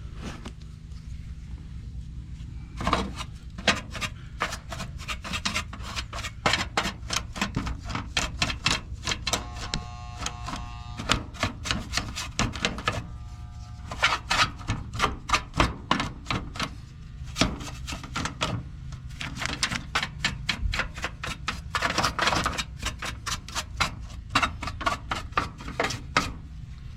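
Quick irregular clicking and tapping of hand tools on metal parts while a run capacitor is fitted and strapped in an AC condenser, over a steady low hum. A short ringing tone sounds about ten seconds in.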